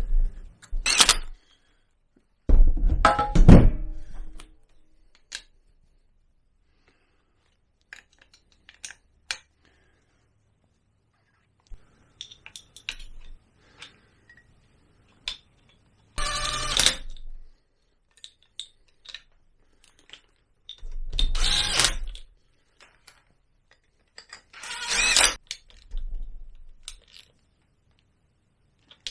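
Intermittent clunks and short, loud bursts of metal tool work on a scooter engine's drive side, with quiet gaps and a few small clicks in between.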